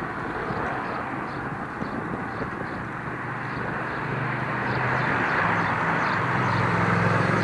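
Wind rushing over the microphone of a moving bicycle, with road traffic; a motor vehicle's low engine hum grows louder from about halfway in.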